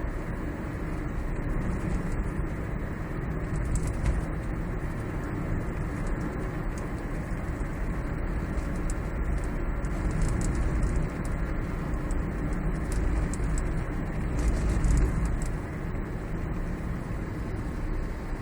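Steady road and tyre rumble inside a moving Toyota Prius cabin, with faint irregular ticks or rattles over it: the abnormal noise suspected to come from inside the dashboard.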